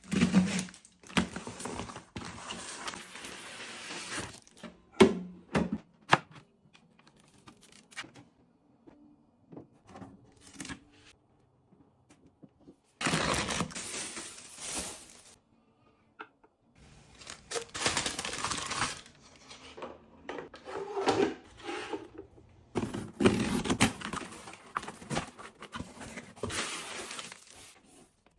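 Packaging rustling, crinkling and tearing in several bursts of a second or more, with objects set down in sharp knocks and clicks between them as items are unpacked and put away.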